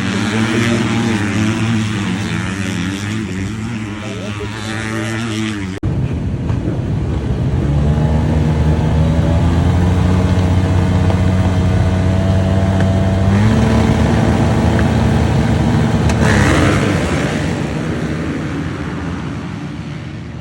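Engine running steadily, with a sudden cut about six seconds in. Another engine note builds, steps up in pitch about halfway through, then fades away over the last few seconds.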